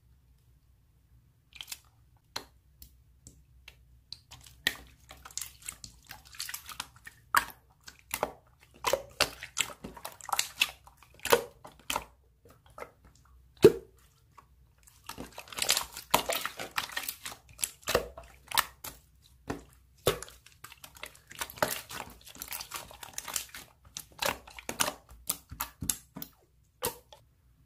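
Slime being squished and pressed by hand: an irregular run of sticky clicks and crackles, with a short pause about halfway through.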